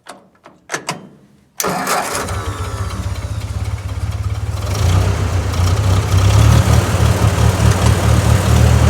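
A few light clicks, then the 1955 Ford 660 tractor's cold four-cylinder engine catches about a second and a half in on a restart. It runs ragged at first, then grows louder and settles into a steadier run a few seconds later.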